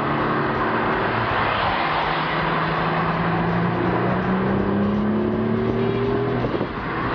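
2011 BMW 335i's turbocharged straight-six, fitted with an aftermarket downpipe and Vishnu exhaust, pulling hard under acceleration, heard from inside the cabin. The engine note rises steadily in pitch, with a brief drop about six and a half seconds in.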